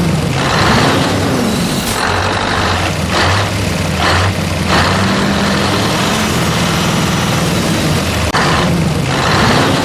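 Truck engine running steadily, with a few short bursts of hiss and a couple of brief swells in pitch.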